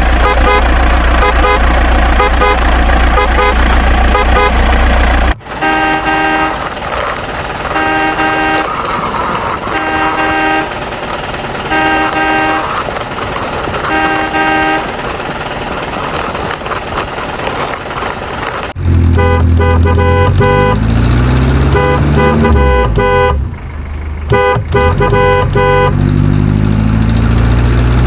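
Vehicle horn honking in a regular rhythm of short toots over a running engine. From about two-thirds of the way in, the engine revs up and down while the honking continues in short groups.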